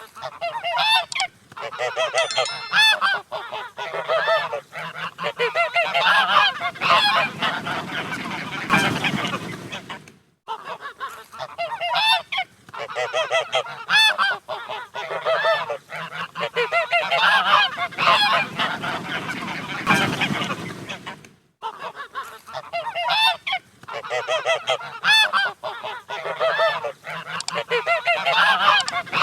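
A flock of geese honking: many overlapping calls. The same stretch of honking plays three times over, with short breaks between.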